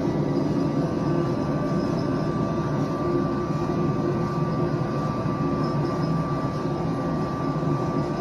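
Boeing 737 cockpit during the takeoff roll: steady rumble of the twin jet engines at takeoff thrust and the runway, with a thin steady whine above it.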